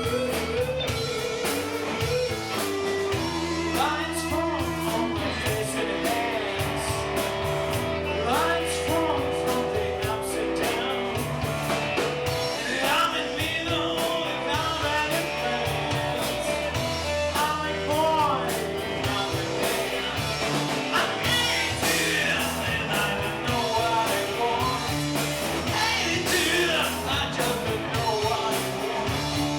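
Blues-rock song with a singer over guitar, a steady low bass line and a continuous beat.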